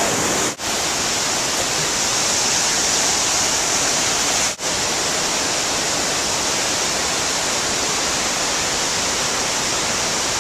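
Steady roar of a big waterfall, Bridalveil Fall, its falling water and spray making a loud, even rush. The rush drops out for an instant twice, about half a second in and again about four and a half seconds in.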